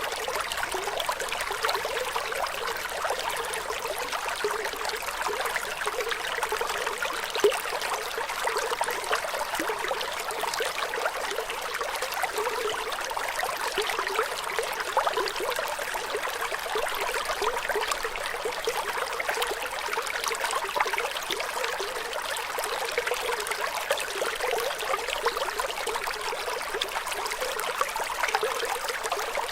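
Flowing water trickling and splashing steadily, with a bright sound and little low rumble.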